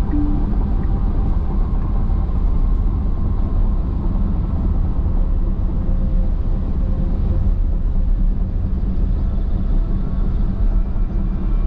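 Car cruising at highway speed on a dry road: a steady low rumble of tyres and engine.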